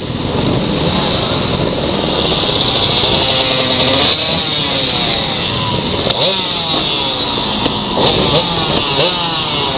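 Gas Gas trials motorcycle engine running and revving up and down, with short rising throttle blips as the bike is ridden slowly. A few sharp clicks are heard over it.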